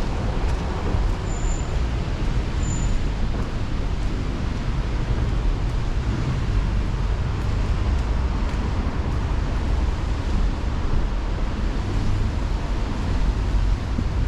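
Steady road traffic noise on wet city streets, with a heavy low rumble of wind on the microphone. Two short high chirps sound about a second apart near the start.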